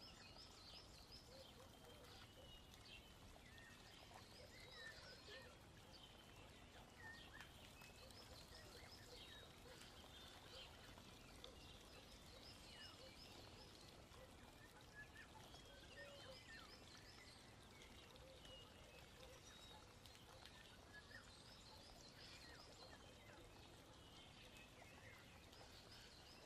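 Near silence, with faint high chirping calls, like birdsong, repeating every few seconds over a low background hiss.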